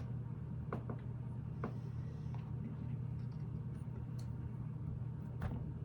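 A few separate sharp clicks of small plastic Lego pieces being handled and pressed into place, over a steady low hum.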